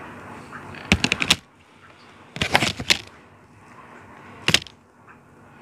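Handling noise from an S.H.Figuarts action figure and its clear plastic wrapping: three short bursts of rapid clicks and crackles.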